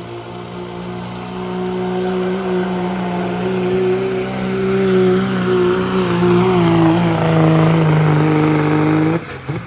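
Pulling vehicle's engine running at full throttle through a pull down the track, getting louder as it goes, with a slight wavering in pitch midway. It cuts off suddenly near the end as the run finishes.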